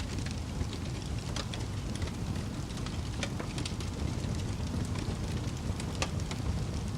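Wood fire burning with a steady low roar and irregular sharp crackles and pops, several a second.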